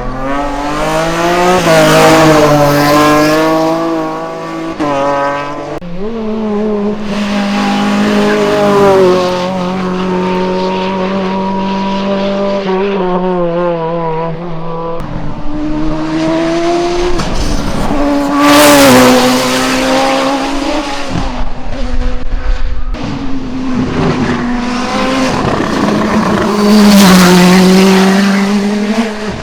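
Racing cars at full throttle on a hillclimb course, engines revving up and dropping back through gear changes as several cars pass one after another. The sound changes abruptly a few times between cars, and the loudest passes come about two-thirds of the way in and near the end.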